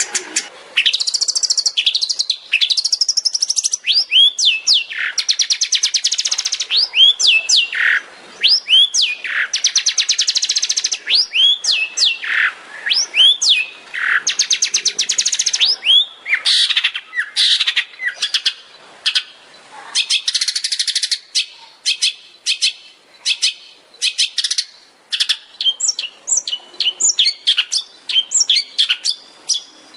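Long-tailed shrike (cendet) singing a varied song: rapid buzzy trills and descending whistled slurs, turning to quick runs of short sharp notes in the second half.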